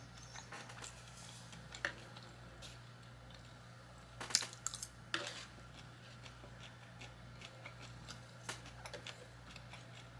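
Close-miked eating: scattered crunching bites and chewing clicks, a few sharper ones about two, four and a half, five and eight and a half seconds in, over a steady low hum.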